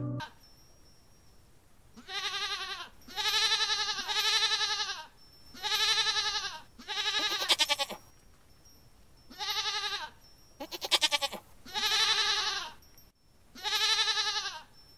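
Goat bleating over and over, starting about two seconds in: about ten calls of roughly a second each. A couple of them quaver with a rapid tremble, and the loudest of these comes about two-thirds of the way through.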